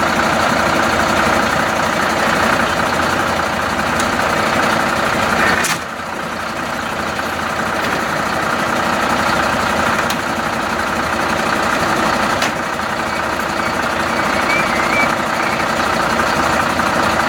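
Fire truck engine running steadily at idle, with a short dip in level about six seconds in.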